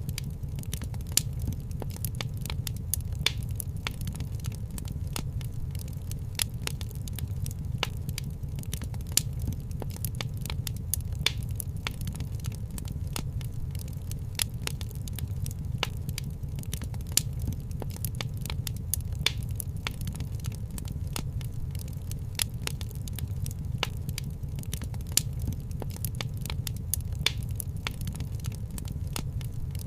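Wood fire crackling in a fireplace: frequent, irregular sharp pops over a steady low rumble.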